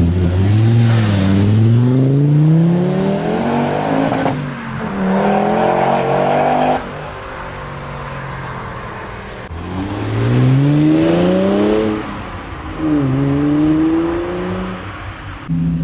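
Performance car engines accelerating hard away from a standstill, the note rising with each pull. The revs drop at each gear change or lift-off, and there are three or four rising pulls in all.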